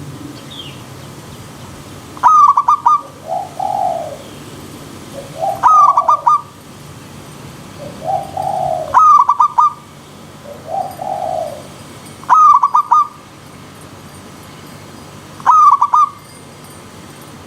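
Zebra dove (perkutut) cooing: a loud, fast stuttering call about every three seconds, five times, with softer, lower coos in between. A steady stream-like hiss runs underneath.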